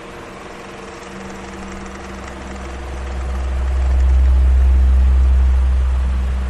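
Electric fan running with a steady hum and airy hiss. About three seconds in, a deep rumble swells up, holds, and fades again near the end.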